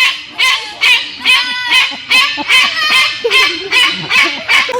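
A bird calling in a steady series of loud, harsh honks, about two to three a second.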